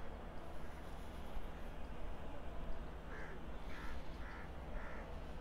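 Passenger coaches rolling slowly past with a steady low rumble of wheels on the track. About three seconds in, a crow caws four times, about half a second apart.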